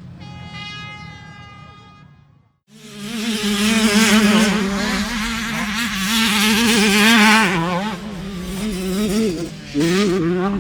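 A racing engine's steady, high buzzing tone fades out. After a short break a second, louder racing engine comes in, its pitch wavering up and down as the throttle works, and it swells again near the end.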